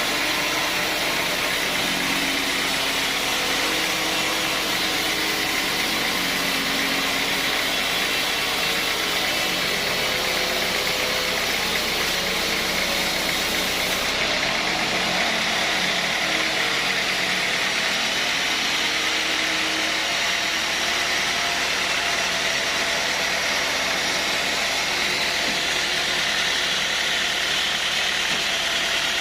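Sawmill machinery running steadily, a constant mechanical drone with a hiss over it.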